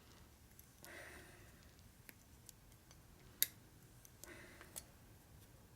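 Faint, scattered metal clicks and two short scrapes from hand tools working a chrome-plated threaded fitting, with one sharper click about three and a half seconds in.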